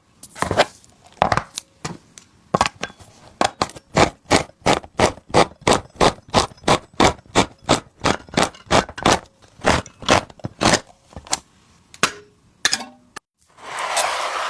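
Rhythmic knife chopping on a cutting board, about four strokes a second for most of the stretch, then a few scattered knocks and a brief rustling noise near the end.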